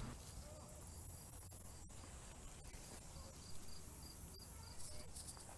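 Faint cricket chirping: a thin high pulse repeating evenly about three times a second, with a couple of soft clicks.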